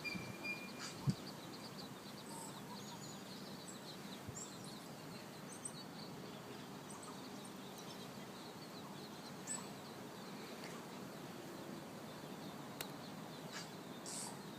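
Faint steady outdoor background noise with many short, high bird chirps and peeps scattered throughout.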